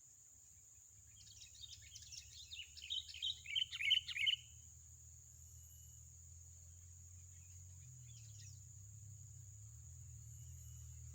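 A small bird singing a quick run of chirps that grows louder over about three seconds, then stops; a faint short chirp follows a few seconds later.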